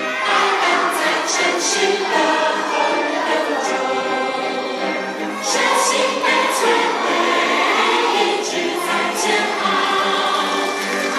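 Music: a choir singing a song with instrumental backing.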